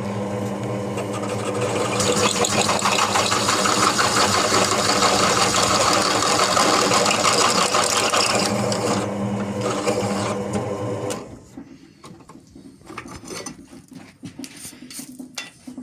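JET drill press running under load, a 16 mm bit cutting into the workpiece with a steady motor hum and a harsh cutting noise. About eleven seconds in it stops, and a few light clicks and scrapes follow.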